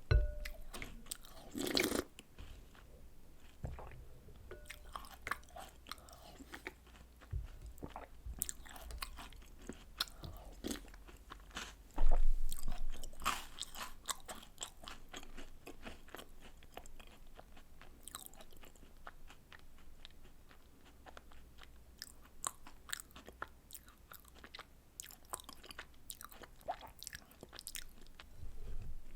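Close-up chewing and crunching of chocolate cookies and snacks soaked in milk, a dense run of small crackles and clicks, with a loud thump about twelve seconds in.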